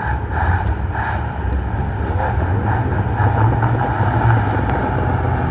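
Heavy truck engine running loudly and steadily.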